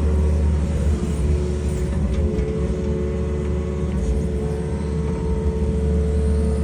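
Excavator's diesel engine running under load with a steady low rumble, and the hydraulics whining at a pitch that steps up about two seconds in and holds, as the machine digs.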